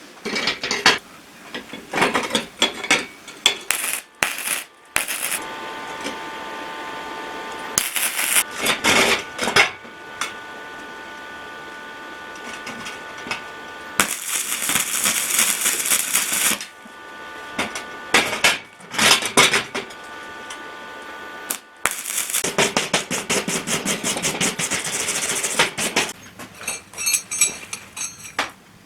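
Metalworking on steel scrap: pieces of metal clanking and knocking, with stretches of a steady machine hum and bursts of loud hissing noise.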